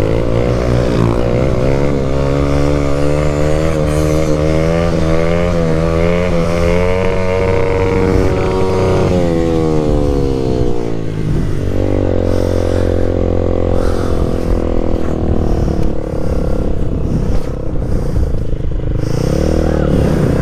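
Motorcycle engine running, its pitch wavering as the throttle works. The pitch climbs over the first several seconds and drops away about ten seconds in. It settles steadier, then swings up again near the end.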